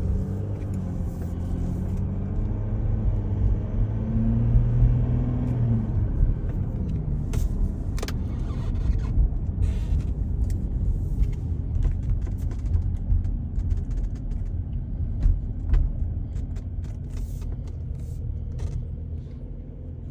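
Car engine and road noise heard from inside the cabin while driving. The engine note rises as the car accelerates over the first six seconds or so, then settles into a steady low tyre-and-road rumble with a few scattered light clicks.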